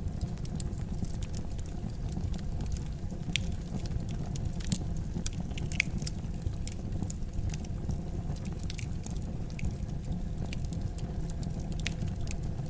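Fire in a fireplace crackling: scattered sharp pops and snaps over a steady low rumble of the flames.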